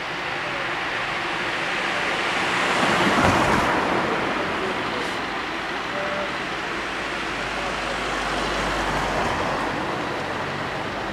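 Road traffic passing close by: one vehicle swells up and past about three seconds in, and a heavier, deeper-sounding vehicle passes around eight to nine seconds in.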